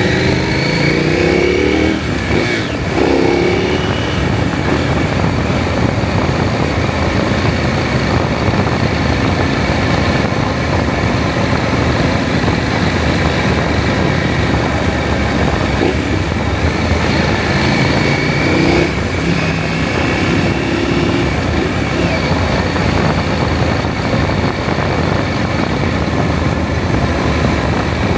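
KTM 790 Adventure's parallel-twin engine under way over a steady rush of wind. The engine pitch rises as it accelerates in the first few seconds and again near the end.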